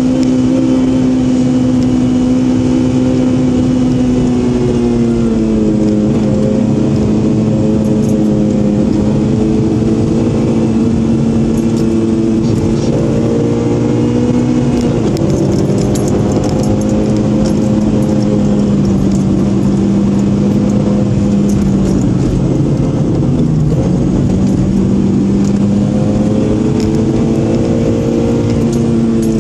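A Honda car's engine is heard from inside the cabin during a hard downhill run, over steady road and tyre noise. The engine keeps up a steady drone whose pitch falls, rises and falls again as the car slows and picks up speed through the corners, dropping sharply about halfway through.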